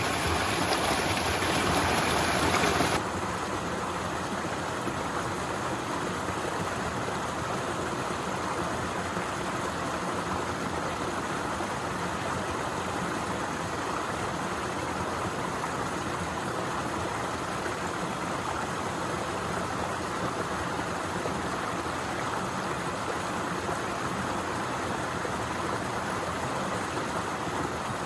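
Waterfall: a steady rush of falling water. About three seconds in it drops abruptly to a softer, duller rush that then holds steady.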